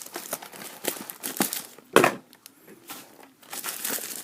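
Crinkling and tearing of the plastic wrapping on a box of trading cards being opened by hand, with one louder rip about two seconds in, a short pause, then more crinkling.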